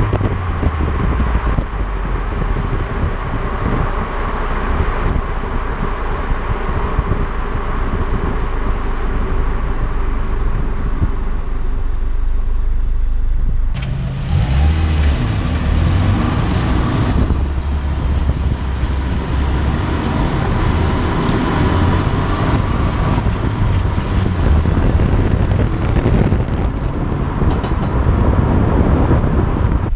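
2018 Ford Focus RS with its 2.3-litre turbocharged four-cylinder and stock exhaust, running while the car is driven, with road and wind noise. About 14 seconds in, the engine note turns deeper and louder as the car pulls.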